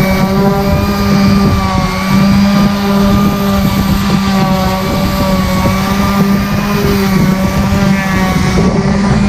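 Electric power sander running steadily while sanding and shaping epoxy filler on a boat hull, a loud even hum with a buzzy rumble beneath it.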